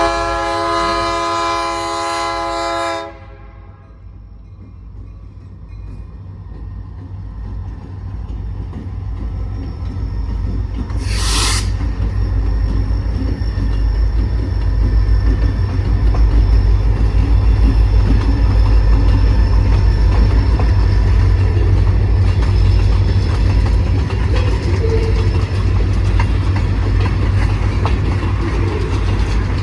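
Freight train's horn sounding one long multi-note blast that cuts off about three seconds in, followed by the rumble of the locomotive and train passing, growing louder and peaking midway. A brief hiss about eleven seconds in.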